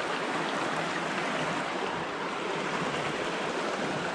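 Steady rush of a river's flowing water, an even noise with no breaks or changes.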